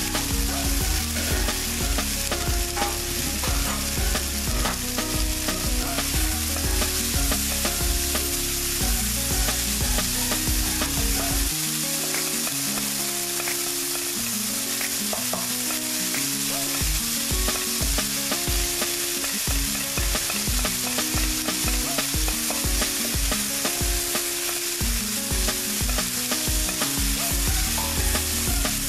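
Chopped onions and tomatoes sizzling in hot oil in a pan as they are stirred with a wooden spatula. Under it runs a tune of background music with a steady low beat that drops out for a few seconds near the middle.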